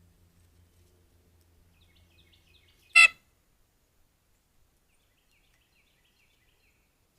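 A bird gives one short, loud, harsh call about three seconds in, with faint high chirps before and after it.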